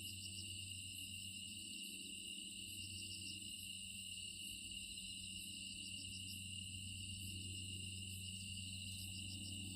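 Steady, unbroken chorus of insects chirring in several high pitches, over a steady low hum.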